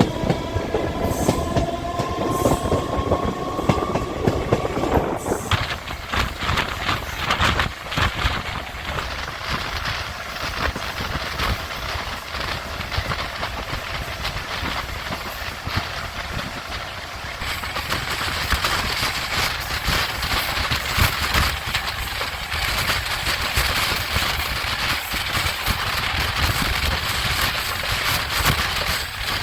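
A train horn sounds for about the first five seconds, its pitch rising slightly, then an electric multiple unit (MEMU) train runs at speed, with steady rumble and the clickety-clack of wheels over the rails; the noise turns brighter about halfway through.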